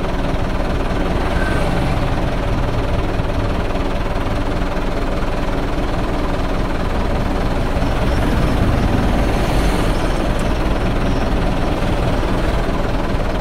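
An engine running steadily, a continuous low rumble with a faint steady hum and no breaks.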